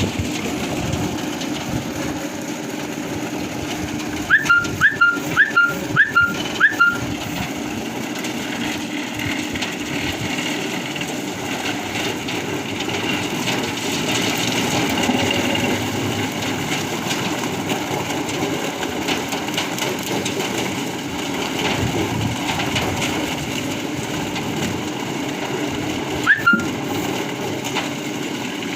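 Wood debarking machine running steadily with a constant hum and rumble. About four seconds in there is a quick run of five short, loud rising chirps, and one more near the end.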